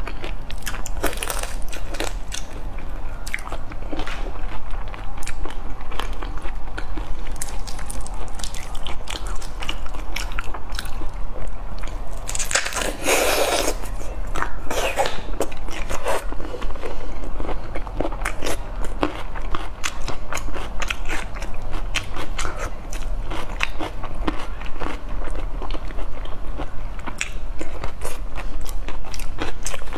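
Close-miked chewing and biting of raw prawns in spicy marinade: wet smacking and crunching of the shells in quick, uneven clicks, with a louder burst of noise about thirteen seconds in.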